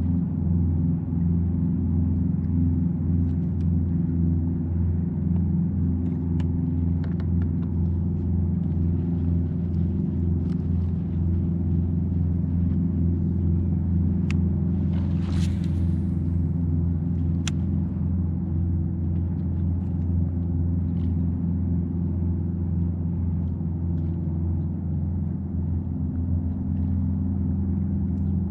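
Kayak's electric motor running steadily under way, a constant low drone, with a brief hiss about halfway through.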